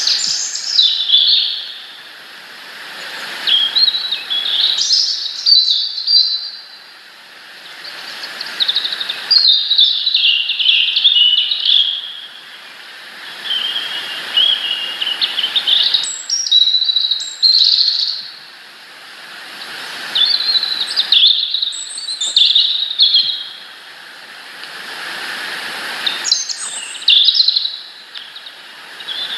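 A songbird singing a series of short, varied, high-pitched warbling phrases, with pauses of a second or two between them.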